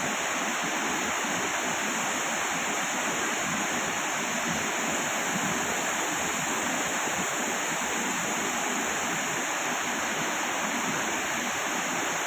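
Steady rush of water from a waterfall, an even unbroken roar of falling and flowing water.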